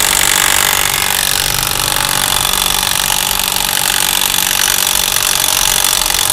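Cordless impact wrench hammering steadily on the nut of a Yamaha NMAX's CVT front pulley (variator), undoing it so the pulley can be removed.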